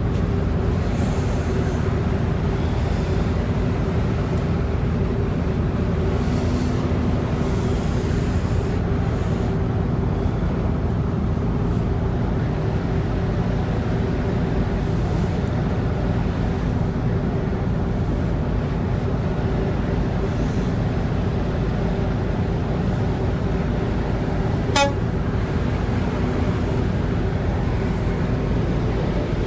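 Ships' horns sounding long and steady over a low rumble of engines and wind, blown as the grounded container ship is refloated. One brief click comes near the end.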